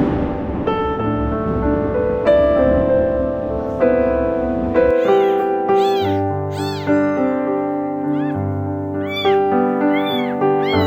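Background piano music. From about halfway through, a kitten meows over it again and again in short, high cries.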